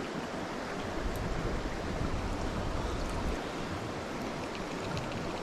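Steady rush of flowing river water. A low rumble joins it from about one second in and stops a little after three seconds.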